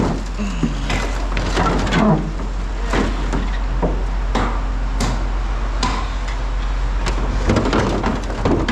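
Irregular knocks and clatter of hard objects being handled, over a steady low hum, with faint voices in the background.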